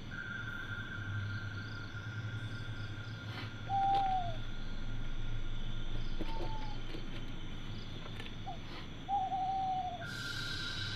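Owl hooting: four short hoots a couple of seconds apart, each dipping slightly in pitch, over a steady high drone of night insects.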